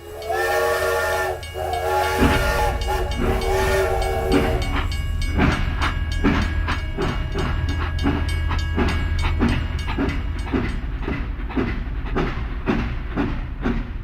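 Train whistle blowing in a few blasts, then the steady rhythmic clickety-clack of train wheels running over rail joints, over a low rumble.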